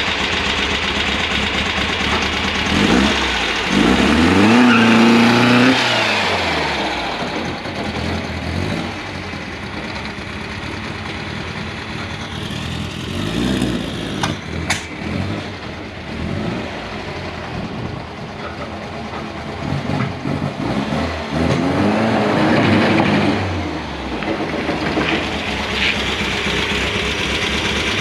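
Freshly installed engine in a VW Beetle rally car running after its first start-up, revved up and back down twice, once a few seconds in and again near the end, with uneven running between the revs.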